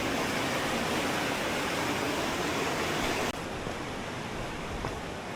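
Steady rush of falling water from a waterfall, which drops abruptly to a quieter, duller rush about three seconds in.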